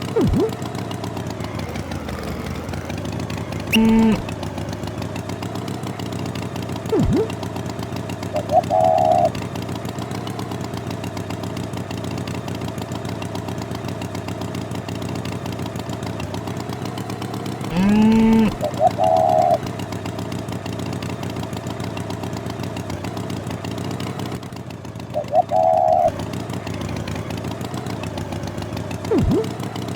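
A steady engine hum runs throughout. Short high chirps come every several seconds, two louder brief calls sound about 4 and 18 seconds in, and a few quick falling sweeps pass.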